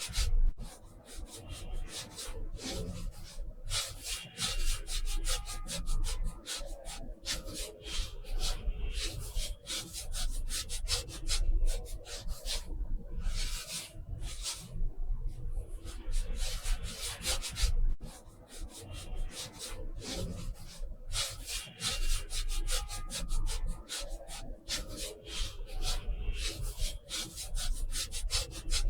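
Short scratchy strokes of a painting or drawing tool rubbing across watercolor paper, several a second, in runs with brief pauses.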